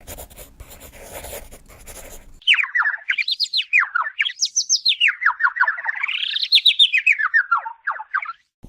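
A faint rustling hiss, then about two and a half seconds in a fast run of high bird-like chirps whose pitch swoops up and down in waves. The chirps stop shortly before the end.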